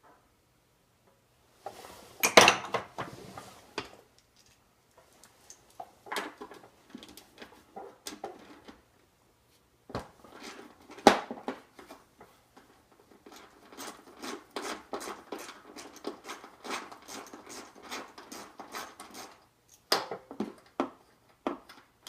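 Hand tools clinking and clattering on metal and plastic while a dirt bike's number plate is being unbolted. A loud clatter comes about two seconds in, and past the middle a run of quick, even clicks lasts several seconds.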